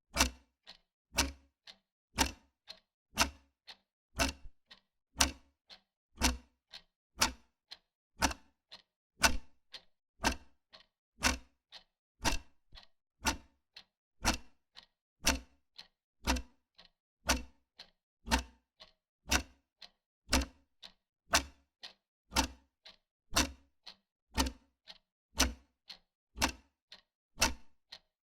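Wall clock ticking steadily, about two ticks a second with every other tick louder.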